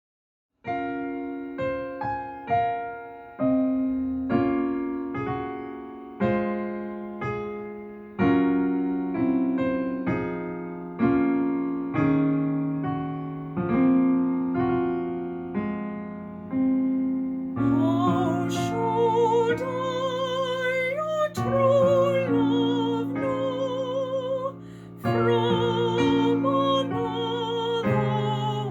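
Piano playing a slow introduction of struck, fading chords; about 18 seconds in, a classically trained singing voice with wide vibrato enters over the piano accompaniment.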